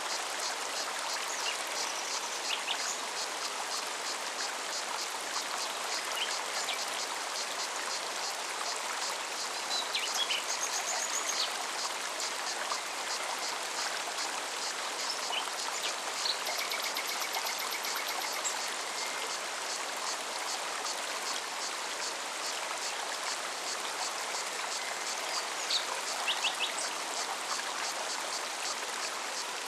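Mountain stream flowing steadily. A cicada pulses evenly and quickly high above it, and birds give a few short chirps now and then.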